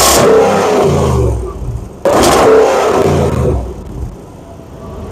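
Range Rover SVR's 5.0-litre supercharged V8 revved twice: one blip peaking at the start and a second sharp one about two seconds in. Each falls away in pitch back towards idle.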